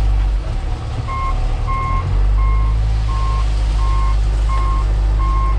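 Heavy diesel loader running with a backup alarm beeping steadily, about one beep every three-quarters of a second starting about a second in, as the machine reverses away from the dump truck.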